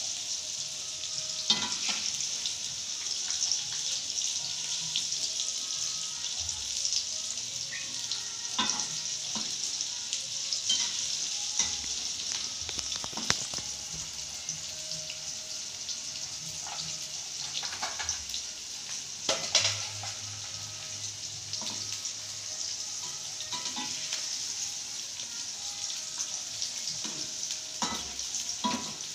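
Tofu cubes frying in a wok over a gas flame: a steady sizzle, with a metal spatula scraping and clicking against the wok now and then.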